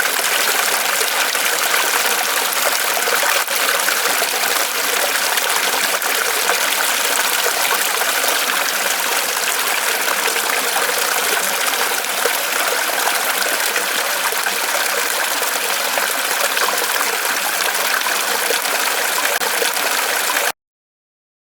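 Small waterfall of water trickling and splashing from a tree trunk, a steady rushing sound that cuts off suddenly near the end.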